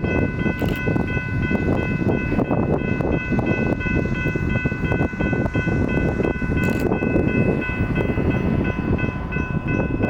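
Loaded coal train running past with a dense, steady rumble. A steady high-pitched tone of unchanging pitch rings over it.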